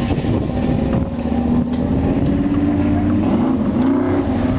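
Car engine running nearby: a steady low rumble with a humming tone that wavers near the end.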